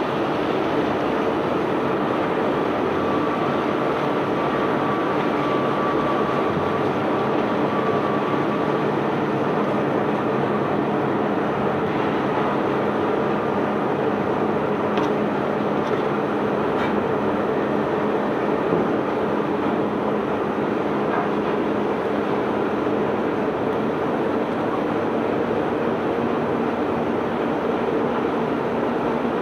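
Self-unloading barge's unloading machinery running steadily: a constant mechanical rumble and rattle with a steady hum, a faint whine over the first few seconds and a few sharp clicks near the middle.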